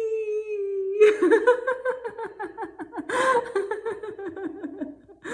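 A woman's voice holding a long, slowly falling "wee", then breaking about a second in into rapid "ha-ha" laughter that runs for several seconds, with a sharp breath in the middle.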